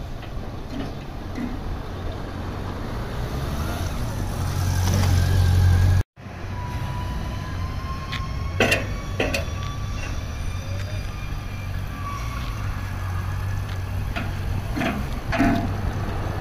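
Motorcycle engine running at a slow crawl, growing louder up to about six seconds in, where the sound drops out briefly; after that the engine runs more quietly, with a few sharp knocks.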